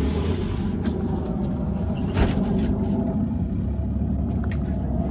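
Steady low vehicle rumble with several short knocks and bangs as boxes are loaded into a cargo van.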